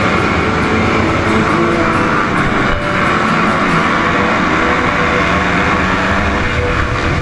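Motocross bike engine running steadily as the bike is ridden, heard close up from an on-board action camera.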